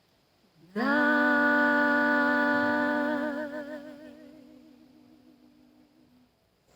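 An unaccompanied voice holding one long final note of a song. The note is steady at first, then takes on a vibrato and fades away over a few seconds.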